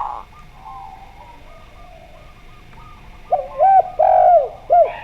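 Doves cooing: a loud coo right at the start and softer coos, then a loud run of four arching coos about three and a half seconds in.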